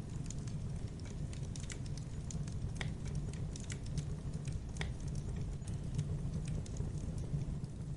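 Campfire burning: a steady low rumble of flames with frequent small irregular crackles and pops, and a few sharper snaps.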